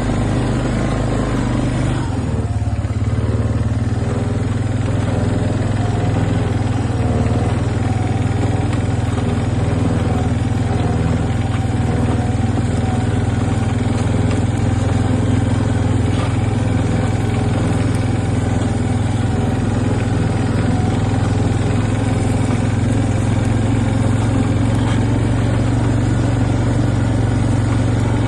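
An engine running steadily, with a deep, even hum; its sound shifts once about two seconds in and then holds steady.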